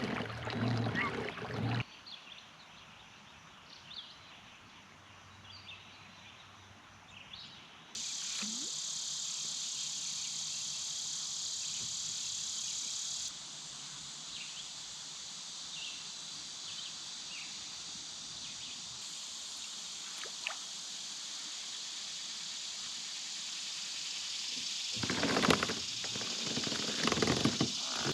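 A quiet stretch with faint bird chirps, then a steady high-pitched insect chorus that starts abruptly about eight seconds in. Near the end come a few seconds of louder rustling and knocking.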